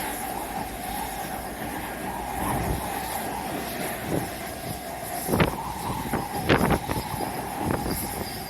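Jet airliner engines running with a steady whine over a low rumble. Strong wind buffets the microphone in irregular gusts from about five seconds in.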